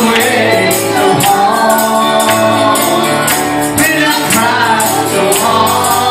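Gospel band music with a tambourine shaken and struck on the beat about twice a second over sustained instrument chords, with some singing voices in the mix.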